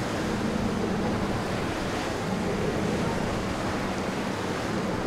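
Ocean waves and surf with wind buffeting the microphone, a steady wash of noise, under a faint low hum.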